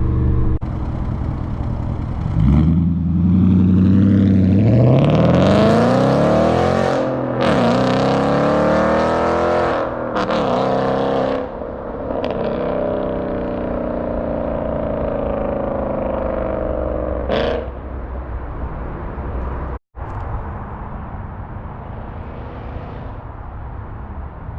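Straight-piped Audi S5 V8 exhaust accelerating hard, its pitch climbing and dropping back at two gear shifts, then settling into steady cruising. The sound cuts out for an instant about 20 seconds in.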